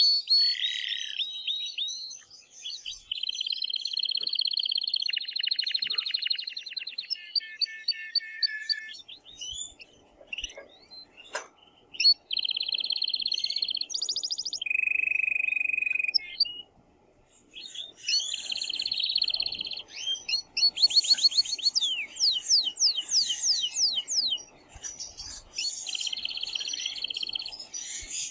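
Male domestic canary singing in excited breeding song: long phrases of rapid trills and rolls and fast repeated chirps, high-pitched, with short breaks between phrases.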